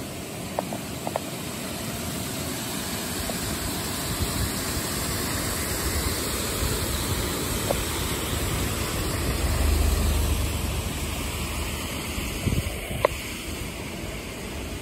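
Steady rush of a fast mountain stream, the Kibune River, with a low rumble that swells and fades about two-thirds of the way through and a few faint clicks.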